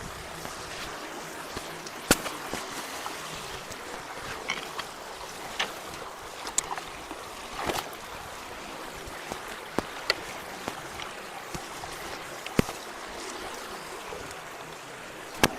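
Water rushing steadily through a culvert that has just been unclogged, with a few sharp knocks scattered through it.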